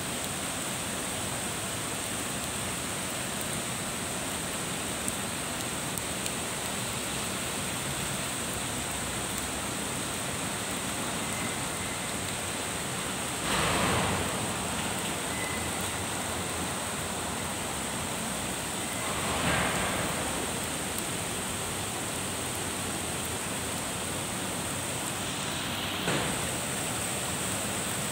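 Steady rain falling on wet pavement, trees and a road, an even hiss. The hiss swells briefly louder three times: about halfway through, about two-thirds of the way through, and near the end.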